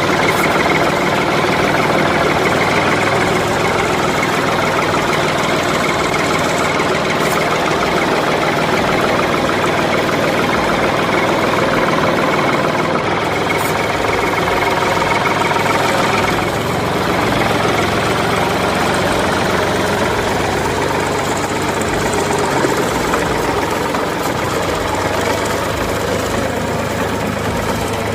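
An engine or motor running steadily at an even idle, loud and unbroken, with a slight dip about two-thirds of the way through.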